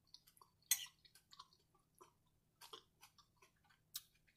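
Quiet close-up chewing of crispy fried catfish and coleslaw: soft, wet mouth clicks and small crunches, with two sharper clicks, one about a second in and one near the end.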